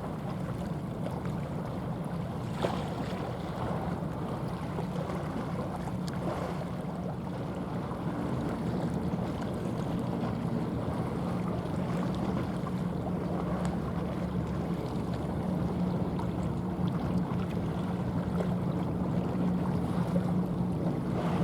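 Steady low hum of a large car carrier's engine as the ship passes, mixed with wind and water noise, growing slightly louder toward the end. A brief click about three seconds in.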